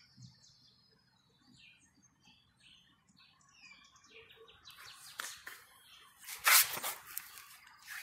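A small bird chirping: many short, faint, high-pitched chirps in the first half. These are followed by rustling noises, with one loud, brief rustle about six and a half seconds in.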